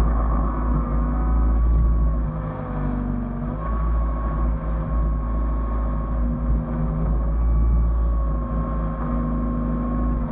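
Hyundai excavator running steadily under work: a deep engine rumble with a steady whine over it that dips slightly in pitch a few seconds in.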